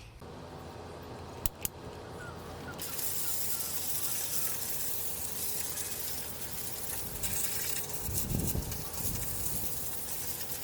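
A couple of sharp clicks, then, about three seconds in, a steady hiss of liquid spraying that runs on without a break.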